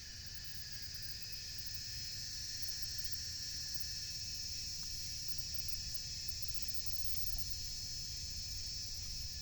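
Steady high-pitched chorus of insects shrilling, with a low rumble underneath.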